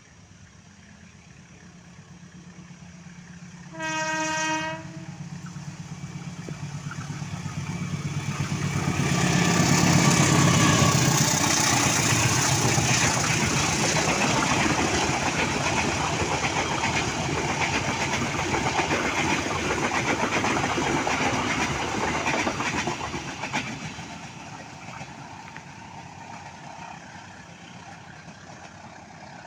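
A diesel locomotive horn sounds once, briefly, about four seconds in. Then a ballast train comes up and passes, its wheels clattering over the rails for about fifteen seconds before the sound fades away.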